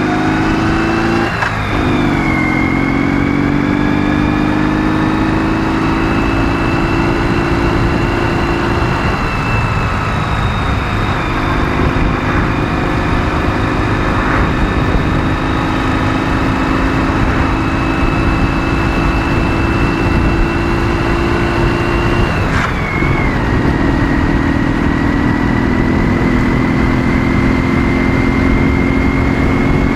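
Ural motorcycle's 650 cc flat-twin engine under way at speed, rising in pitch. It shifts up briefly about a second in, pulls steadily for a long stretch, and shifts up again about three quarters of the way through, with a heavy low rumble of wind and road underneath.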